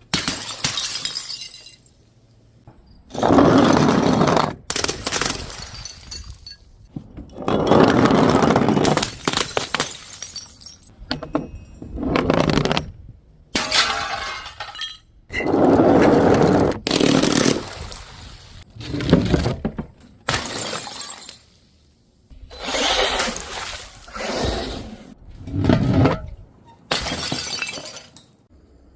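Glass bottles and jars shattering one after another, about a dozen separate breaks, each a loud crash followed by a short spill of crunching, tinkling shards, with brief silences between them.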